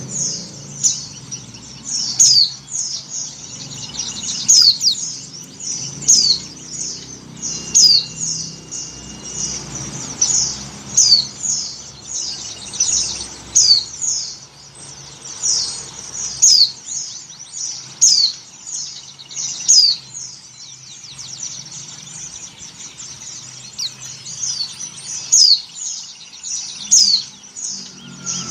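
White-eye (pleci) giving short, high, downward-sweeping chirps over and over, about one or two a second, over a faint low hum. It is presented as a female in breeding condition calling to males.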